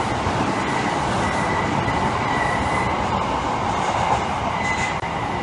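Odakyu 60000 series electric limited express train running through an underground station platform at speed: a loud, steady rumble and rush of wheels on rail in the tunnel, with a thin high squeal that comes and goes. The last car passes about four seconds in.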